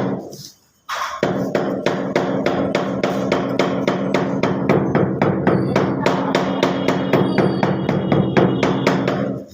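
Fast, regular knocking, about five or six strikes a second, over a steady hum, with a short break about half a second in.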